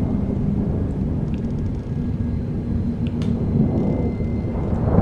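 Steady, loud low rumble with a low drone running through it.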